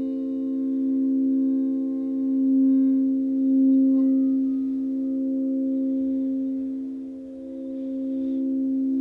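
A drone of several steady pure tones held together, a sound-healing sleep frequency, slowly swelling and dipping in loudness. Faint higher ringing overtones die away over the first few seconds.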